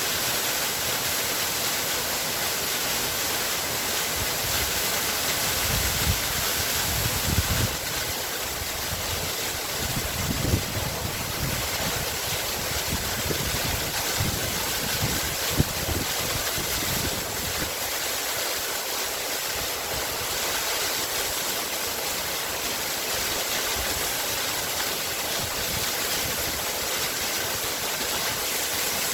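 Waterfall: a steady rush of falling, splashing water. A few brief low thumps and surges come through between about 6 and 16 seconds in.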